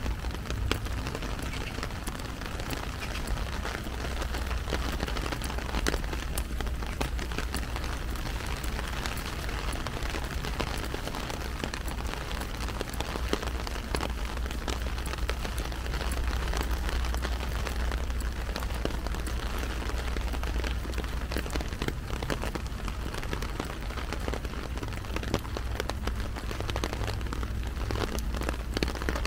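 Heavy rain falling and pattering on an umbrella overhead, a dense, steady stream of tiny drop hits, with a low steady rumble underneath.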